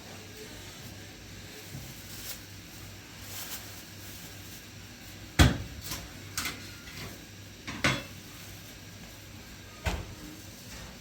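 A handful of sharp knocks and clatters at uneven intervals, the loudest about five and a half seconds in, over a faint steady low hum.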